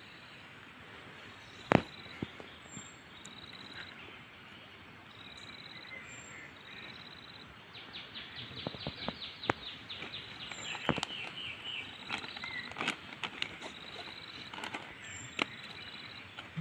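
Forest birds calling: a short high note repeated every second or so, with a quick run of rapid notes about eight seconds in. A few sharp clicks cut across, the loudest about two seconds in.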